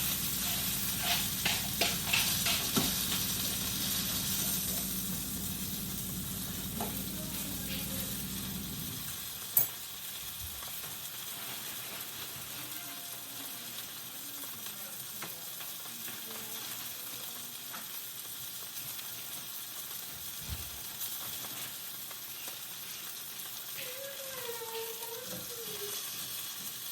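Beef sizzling in a frying pan as it browns, a steady hiss with a few clicks and scrapes early on. A low hum cuts off about a third of the way in, followed by a single sharp click.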